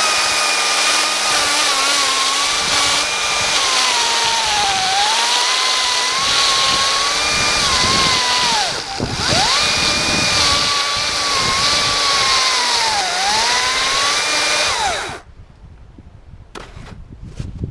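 Power saw cutting wood, its high whine dropping in pitch as it bogs in the cut and climbing back several times. It lets off briefly about nine seconds in and stops about fifteen seconds in.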